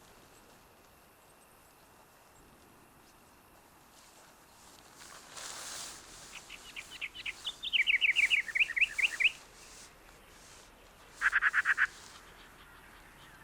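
A small songbird singing: a rapid series of short, sharply falling notes for about three seconds, then a brief fast trill a couple of seconds later.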